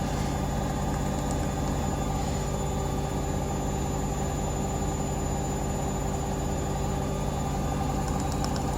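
Hoover Link front-loading washing machine spinning steadily at full speed, 1400 rpm, on a spin-only program, with a constant hum and whine.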